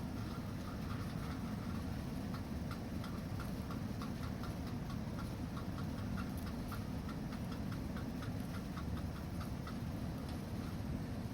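Campfire burning: a steady low rumble with scattered small crackles. From about two seconds in to about nine seconds, a run of soft, evenly spaced ticks comes about three times a second.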